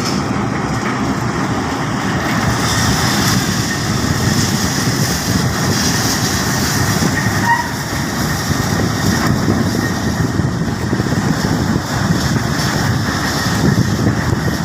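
Steady, loud mechanical rumble with a hiss over it, from a large ship's machinery.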